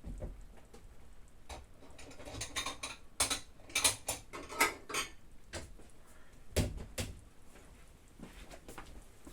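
Kitchen handling noises while cheese is being portioned out: scattered clicks, a quick run of sharp clattering and rustling from about two to five seconds in, and a dull knock a little later.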